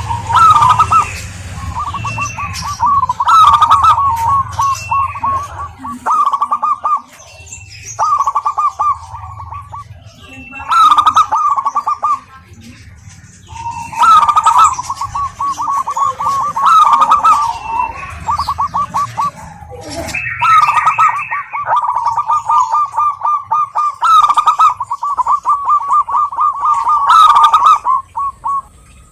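Zebra doves (perkutut) singing: phrase after phrase of rapid, stuttering coos around the same pitch, each lasting a second or two and coming every few seconds, often overlapping. Higher, thinner chirps are mixed in.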